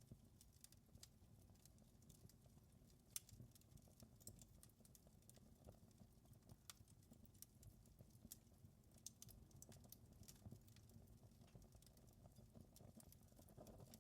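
Faint crackling of a fire in a fireplace: irregular small pops and snaps over a soft low rumble, with one sharper pop about three seconds in.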